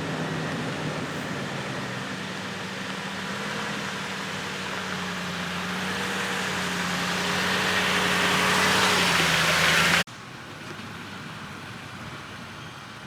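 Engine hum and road noise heard from inside a moving Toyota Land Cruiser, the rushing noise growing louder and then cutting off abruptly about ten seconds in, leaving quieter outdoor background.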